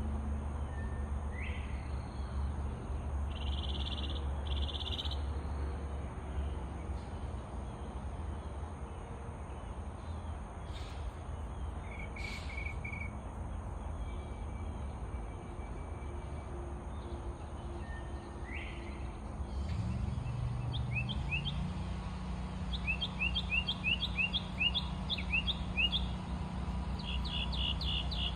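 Songbirds calling and singing, with scattered chirps and a fast run of repeated sweeping notes near the end, over a low steady hum. About twenty seconds in, a motor starts up, its drone stepping up in pitch and then holding steady.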